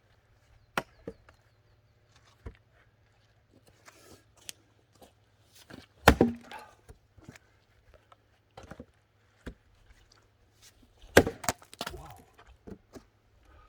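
An axe striking and splitting firewood logs: two heavy chops, about six seconds in and about eleven seconds in, with lighter knocks of wood in between.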